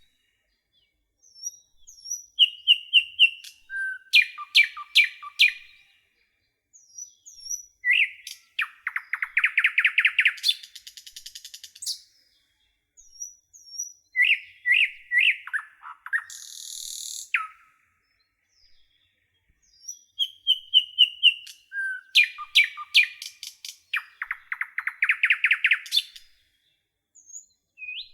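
Songbird singing in phrases of sharp chirps, slurred whistles and a fast buzzy trill, broken by short pauses. The same run of phrases comes round again about halfway through.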